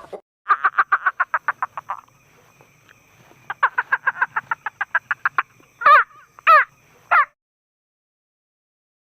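A bird calling: two fast runs of short, rattling notes, about ten a second, then three loud, harsh calls.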